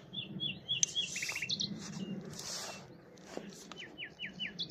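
Common nightingale singing: varied phrases of repeated notes, with a fast rattling trill about a second in and a run of four quick falling whistles near the end.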